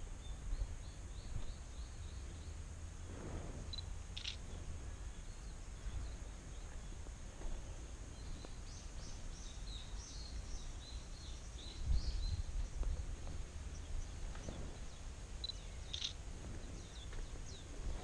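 Outdoor ambience: small birds chirping on and off over steady low background noise, with a quick run of chirps near the start, a cluster of calls in the middle and a few more near the end.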